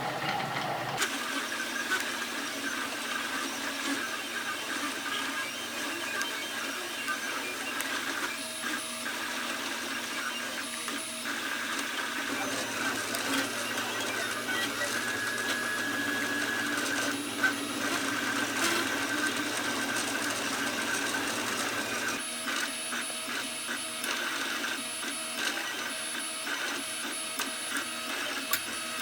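3D printer printing: its stepper motors run in steady whining tones that shift in pitch as the print head moves, with abrupt changes about a second in and again about 22 seconds in.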